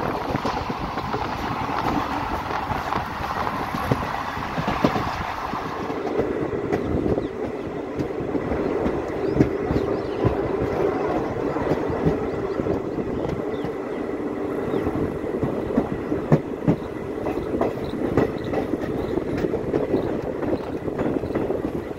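Passenger train running on the rails, heard from on board: a steady rumble of wheels on track with scattered clicks over rail joints. A lower hum comes in about six seconds in.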